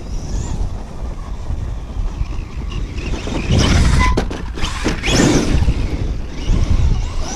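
Kyosho USA-1 electric RC monster truck running on dirt: a high motor whine rises and falls, and a loud scrabbling rush with a few sharp knocks builds about halfway through, as tires throw dirt and the truck hits the ground. Wind rumbles on the microphone throughout.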